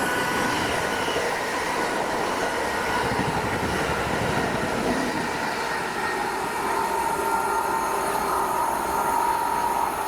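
A train running past at the station: a steady rush of wheels on rail with a faint whine mixed in.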